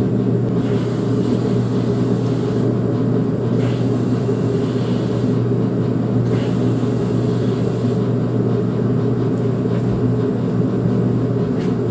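Electric fuel pump running with a steady hum, pressurizing the Mustang's fuel system to test a freshly cleaned fuel fitting for leaks. It cuts off right at the end.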